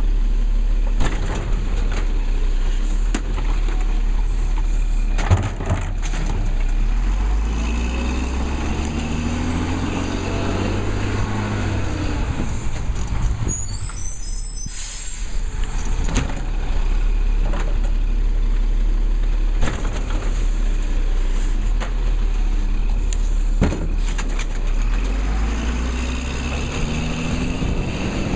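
Labrie Cool Hand garbage truck running, its engine rising in pitch and falling back twice, with a short hiss and squeal of air brakes about halfway through and a few knocks.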